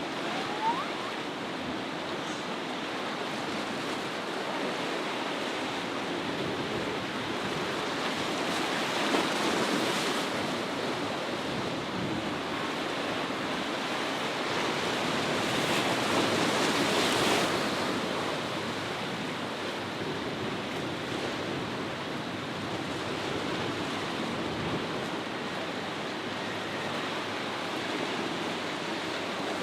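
Ocean surf breaking and washing through an inlet, with wind buffeting the microphone. The wash swells loudest a little over halfway through.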